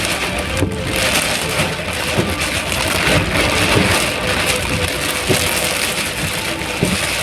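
Heavy rain falling, a dense steady hiss with irregular knocks of drops hitting nearby surfaces, over a faint steady hum.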